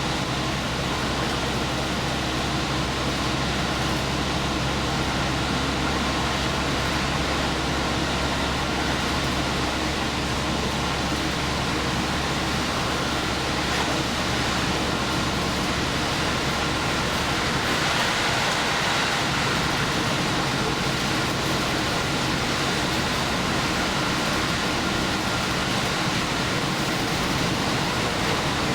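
Diesel express train running, heard from inside: steady rumble of wheels on rail with a low engine hum. About two-thirds of the way through the low hum drops away and the running noise turns slightly brighter, as when the engine is throttled back to coast.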